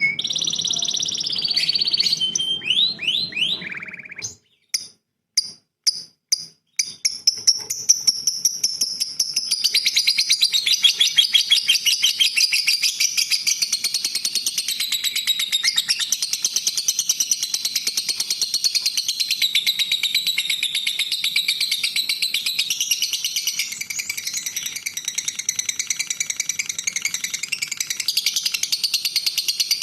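A songbird singing: a varied warble with quick falling sweeps, a brief pause with a few sharp chips, then from about seven seconds a long, fast, unbroken trilling chatter.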